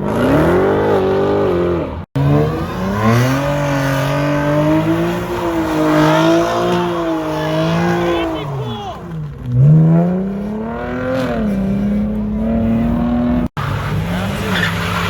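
Car engine revving, its pitch rising and falling in slow sweeps over several seconds. The sound cuts out sharply twice, about two seconds in and near the end.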